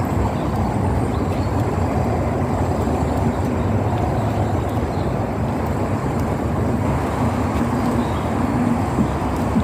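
Magic Mobility Extreme X8 electric powerchair travelling along a boardwalk: a steady rumble of its tyres over the wire-covered boards, with a few faint clicks.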